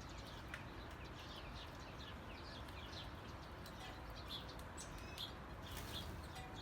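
Small birds chirping faintly, a quick run of short descending chirps repeated all through, over a steady low background rumble.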